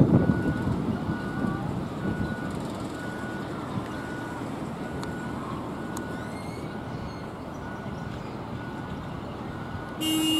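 A train's rumble fading away just after it passes, with a high beep repeating about once a second throughout. A short, loud horn toot sounds near the end.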